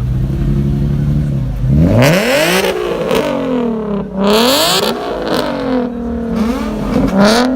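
Car engine idling steadily, then revved repeatedly in place, its pitch climbing and falling about five times with loud rasping peaks at the top of the revs.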